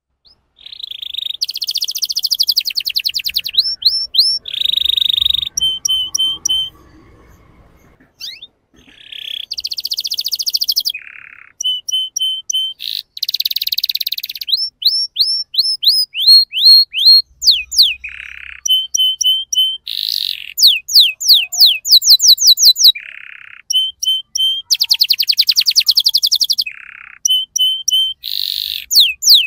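Male canary singing: fast trills and rolls of repeated high notes, each series changing to a new one every second or so, with a short break about seven seconds in.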